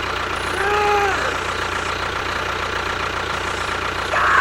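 A small motor running steadily with a constant hum, with a short rising-and-falling tone about a second in and a brief louder burst near the end.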